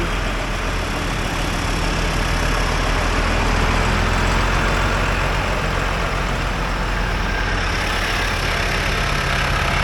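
Tractor engine running steadily close by, swelling slightly around the middle.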